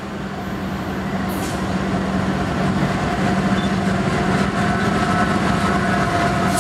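Freight train led by two CSX GE diesel locomotives approaching and passing close: a steady low engine hum with rumbling wheel and rail noise, growing louder throughout as the lead units draw near.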